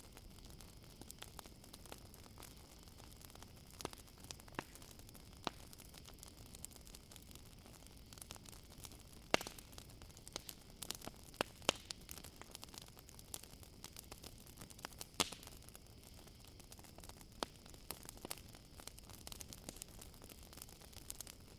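Campfire crackling: scattered sharp pops and snaps at irregular intervals over a low hiss, the loudest a little under halfway through and again about two-thirds in. Crickets chirp steadily and faintly throughout.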